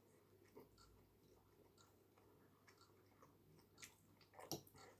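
Near silence with faint, scattered mouth clicks of someone chewing a piece of steak, and a slightly louder click about four and a half seconds in.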